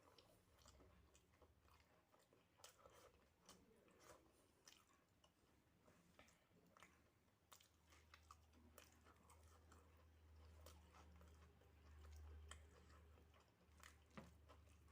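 Faint, close-up chewing of soft rice and dal with aloo chokha (mashed potato), with many small wet mouth clicks and smacks. A low hum comes in during the second half.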